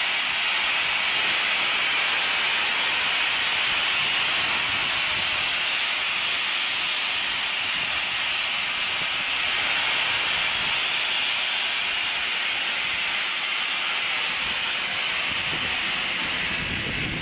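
Steam locomotive letting off steam: a steady, unbroken hiss.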